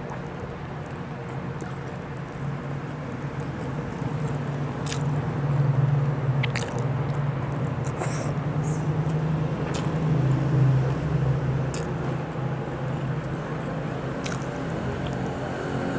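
Close-miked chewing and mouth smacking of a person eating chicken adobo and rice by hand, with scattered short wet clicks, over a steady low hum.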